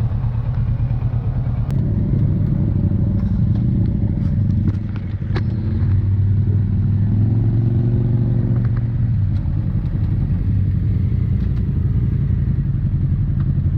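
Motorcycle engines running with a steady low rumble; about halfway through, an engine's pitch rises as it revs up, with a few sharp clicks along the way.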